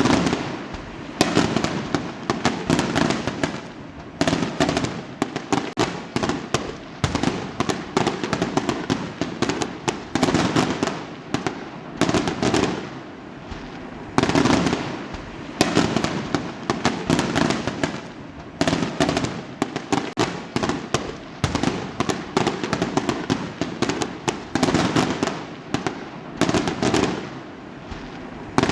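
Fireworks going off one after another: a sharp bang every two to three seconds, each followed by dense crackling that fades.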